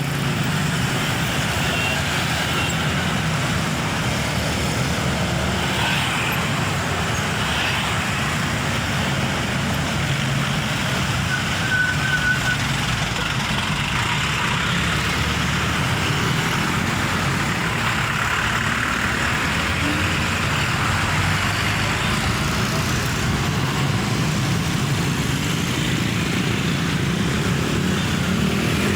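Heavy Mitsubishi Fuso Fighter tronton truck's diesel engine running steadily amid road traffic noise, with a brief high squeal about twelve seconds in.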